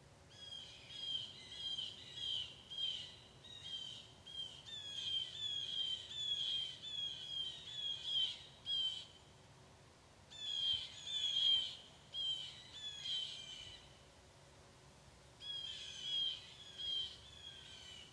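A songbird singing: long runs of short falling notes, about two a second, in three bouts with brief pauses between them.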